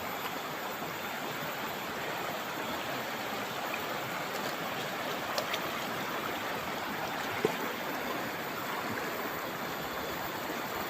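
River water running steadily, with a couple of faint clicks about midway.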